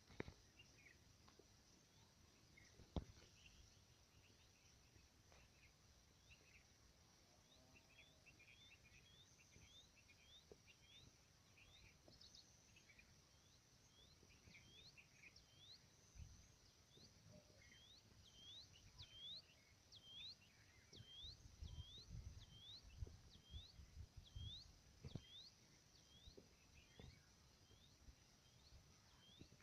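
Faint rural ambience of wild birds chirping, with one bird repeating a short sweeping call about once a second through the second half, over a steady high background drone. Gusts of wind rumble on the microphone about two-thirds of the way through.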